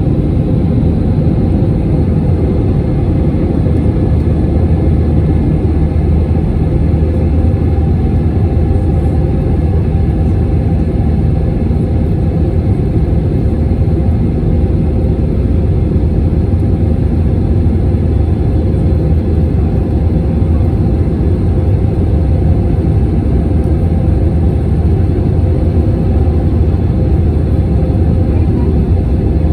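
Steady cabin rumble of an Airbus A321 in flight: engine and airflow noise, unchanging, with faint steady tones above the low rumble.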